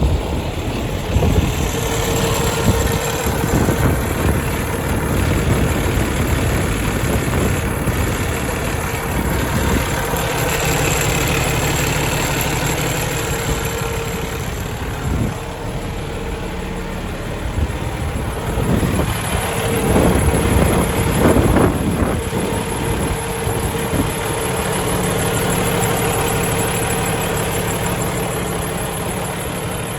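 Diesel engine of a 2015 Kenworth T680 semi truck idling steadily, with a short stretch of louder clatter about two-thirds of the way through.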